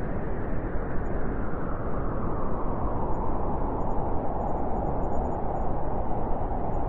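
Blizzard wind blowing steadily, a deep rushing noise with a howling band that slowly falls in pitch.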